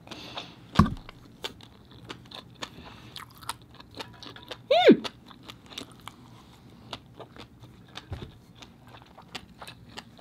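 Close-miked chewing of a mouthful of rice and abalone: many small wet clicks and smacks, with a low thump about a second in and a short hummed "mm" about five seconds in.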